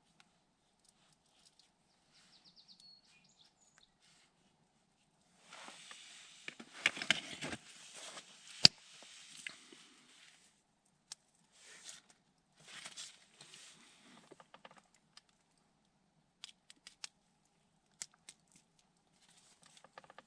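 Rustling and crinkling in irregular bursts, with scattered clicks and one sharp snap about nine seconds in.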